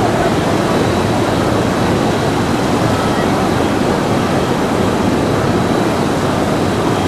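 Airbus A321neo jet airliner on the runway, its CFM LEAP-1A turbofans making a loud, steady rush of noise.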